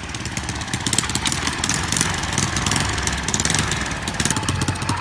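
Small motorcycle engine idling steadily, with a fast, even pulse.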